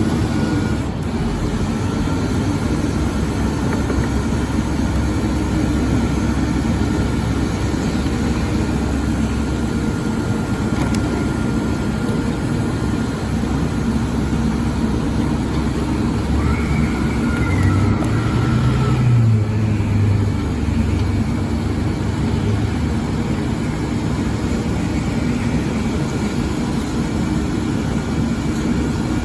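Leach garbage truck's engine running steadily with a faint high whine, the engine speeding up and settling back down about two-thirds of the way through.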